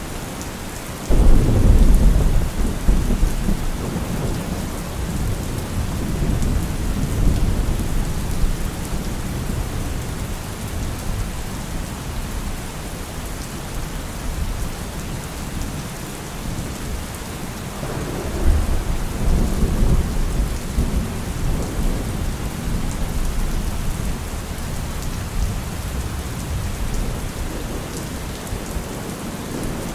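Heavy rain falling steadily. A sudden clap of thunder comes about a second in and rumbles on for several seconds, and a second, lower rumble of thunder follows past the middle.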